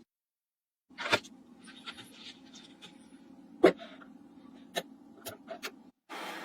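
Magnetic balls snapping together in a few sharp clicks, the loudest about halfway, over a steady low hum that starts about a second in and stops near the end.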